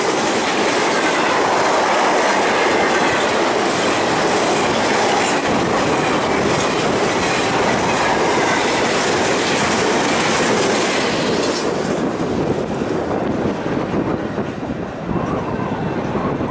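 Freight train cars rolling past, their wheels clacking steadily over the rail joints; the noise eases off in the last few seconds.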